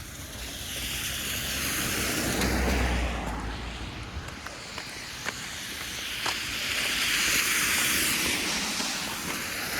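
Street traffic: cars passing one after another with a rushing tyre noise, swelling twice, once with a low engine rumble about two to three seconds in and again near the end.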